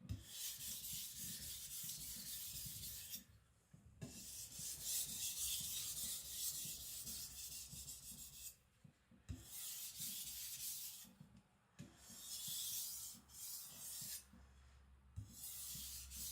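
A very hard AEB-L steel knife blade being sharpened by hand on a 1000-grit Naniwa Professional whetstone: runs of gritty scraping strokes, broken by short pauses about four times.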